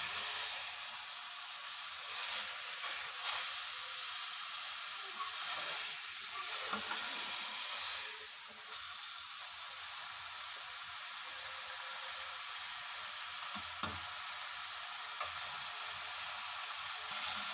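Minced meat and sliced onions frying in ghee in an aluminium pot, a steady sizzle, stirred with a metal slotted spoon that now and then clicks and scrapes against the pot.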